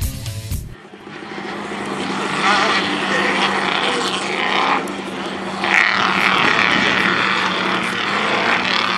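Off-road race truck engines running and revving hard on a dirt track, rising and falling in pitch as the trucks pass, after a few bars of music that stop under a second in.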